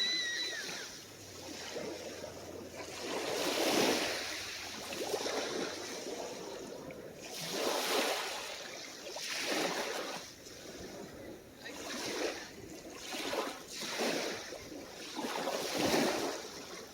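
Small, calm ocean waves breaking and washing up on a beach, the wash swelling and fading every few seconds. A brief high chirp sounds right at the start.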